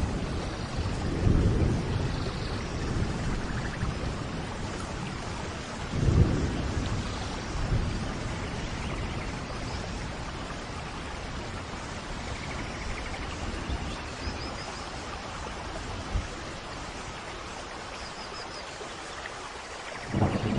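Steady rain with low rolls of thunder, the strongest about a second and a half in and about six seconds in, fading to a steady downpour after that.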